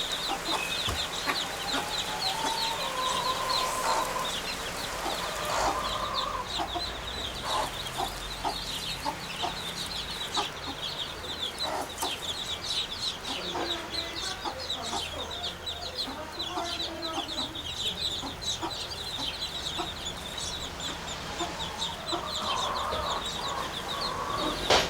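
Outdoor bird calls: chicken-like clucking calls come a few seconds in and again near the end, over a steady high twittering of small birds.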